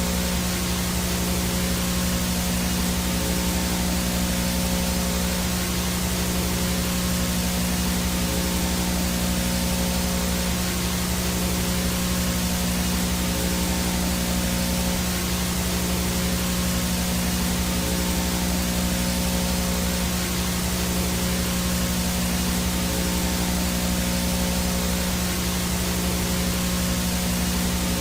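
Analog VHS static noise: a steady, loud hiss with a strong low hum under it, plus a few faint steady tones, including a thin high whine.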